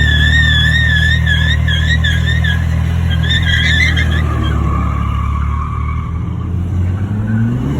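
Pickup truck doing a burnout: the engine is held at high revs while the tyres squeal in a wavering high tone that fades out about halfway through. Near the end the engine note rises as it revs again.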